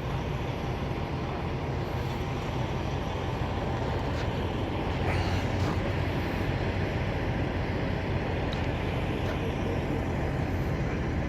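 Vehicle engine running with a steady low drone and road rumble, unchanging throughout.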